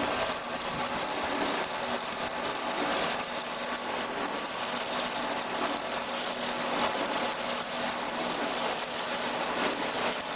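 Log-turning and milling machine running steadily, its cutter working a log: a constant dense machine noise with a steady low hum underneath.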